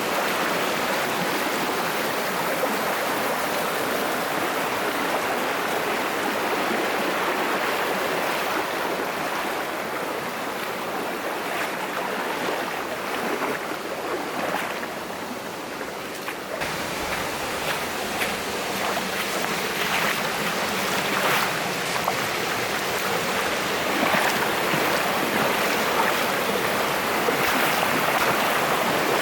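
Mountain stream water rushing steadily over rocks. From about halfway, short sharp splashes break in repeatedly over the flow.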